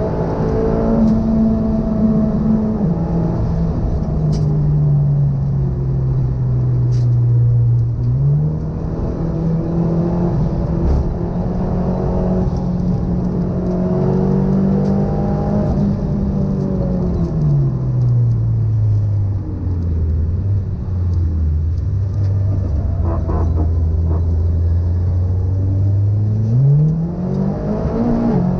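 Turbocharged Audi TT engine heard from inside the cabin on track, about 360 bhp on 1.2 bar of boost. Its note falls away slowly over several seconds, then jumps back up in pitch, about eight seconds in and again near the end. Between those changes it holds steady.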